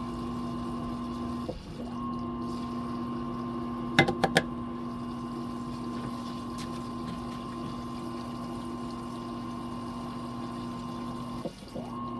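Fisher & Paykel MW059 washing machine's drain pump running steadily with a humming tone, pumping the wash water out. The hum dips briefly twice, near two seconds in and near the end, and three quick clicks sound about four seconds in.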